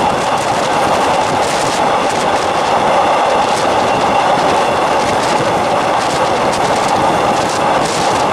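Passenger train running at speed, heard from a carriage window: a steady rush of wheels on rail and passing air, with now and then a faint click from the track.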